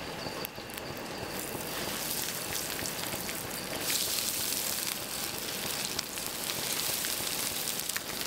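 Battered seafood pieces sizzling and crackling in hot oil in a frying pan on a gas camp stove. The sizzle swells about a second in and again about four seconds in as more pieces are laid into the oil.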